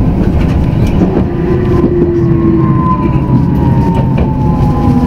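Tokyu Setagaya Line 300-series light-rail car running, heard from inside: a steady low rumble of wheels on rail with scattered clicks. From about two seconds in, a pitched whine glides slowly downward as the car slows.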